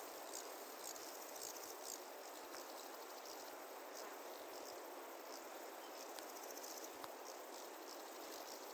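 Faint insect chorus in grassland: short, high-pitched chirps repeating irregularly over a steady soft hiss.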